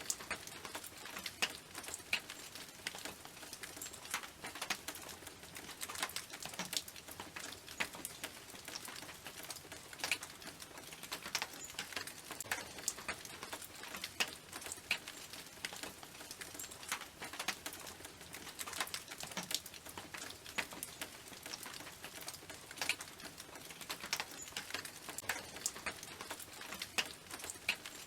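Rain falling on a tin roof: a steady hiss of rain with many separate drops striking the metal in sharp, irregular ticks.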